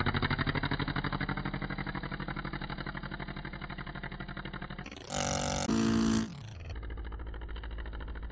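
The model Stuka's 60cc NGH inline-twin two-stroke gas engine running in flight, a rapid, steady pulsing note that gradually grows fainter. About five seconds in, a loud, different sound cuts in for about a second and a half and stops abruptly, after which the engine continues lower and quieter.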